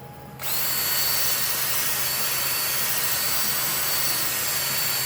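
Power-driven cylinder hone running dry inside a brake wheel cylinder. It starts about half a second in, spins up quickly, then runs steadily with a high whine.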